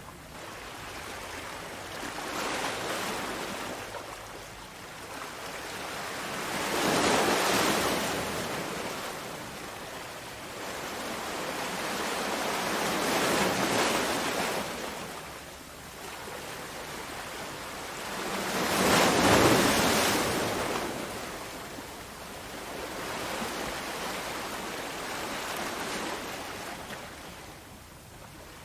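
Sea waves breaking on a shore, a rushing wash that swells and recedes in slow surges, with the two biggest breakers about a quarter and two thirds of the way through.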